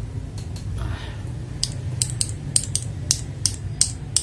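Gateron Milky mechanical keyboard switches pressed one after another, giving a run of sharp, crisp clacks about three a second that start about one and a half seconds in.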